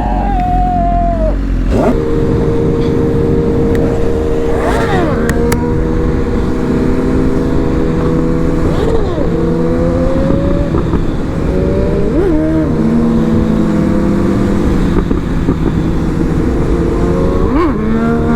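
Sport-bike engine running at a steady cruising pitch over a constant low rumble, its note stepping to a new level a few times and rising briefly now and then.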